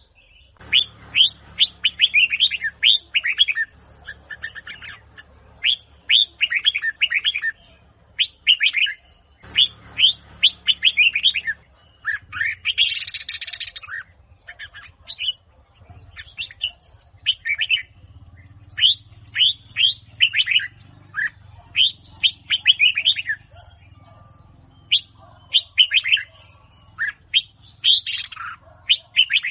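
Red-whiskered bulbul singing, a Huế-type song bird: quick runs of short, bright notes, repeated phrase after phrase with brief pauses between.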